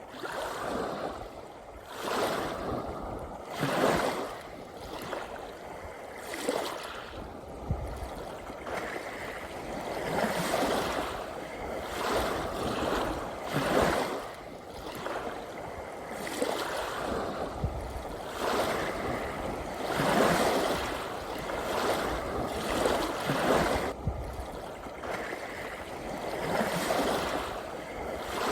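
Sea waves washing in, a steady rush of water that swells and falls back every few seconds.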